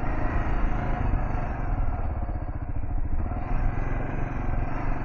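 Kawasaki KLR650's single-cylinder engine running under throttle as the bike climbs a dirt hill, with a rough, pulsing rumble.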